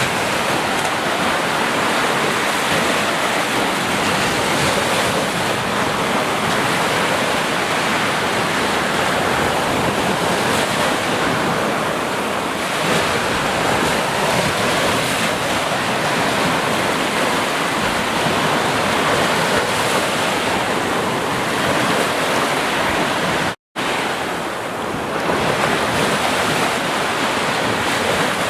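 Ocean surf: waves breaking and washing continuously, as a steady rushing noise. About three-quarters of the way through, the sound cuts out completely for a split second, then resumes.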